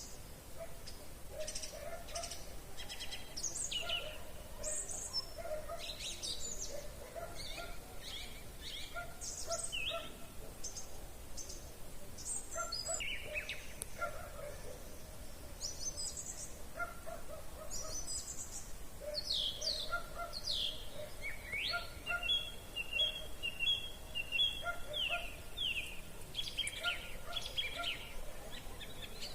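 Evening chorus of several songbirds, with overlapping chirps, whistles and trills from many birds at once. A fast, even trill runs for a few seconds about two-thirds of the way in. A lower call repeats irregularly in the background.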